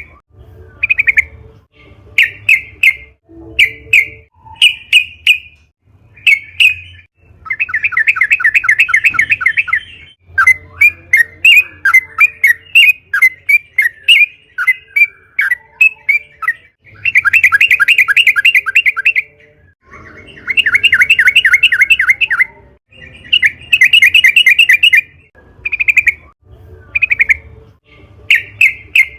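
Sooty-headed bulbul (trucukan) singing energetically. It gives repeated short whistled notes, then long, rapid trilled phrases of a few seconds each with a stretch of chattering between them, and returns to short notes near the end.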